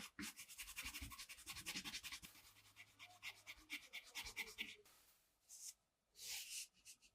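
Rapid back-and-forth scrubbing or scratching strokes against a glass surface for about the first five seconds, then two short rubbing bursts near the end.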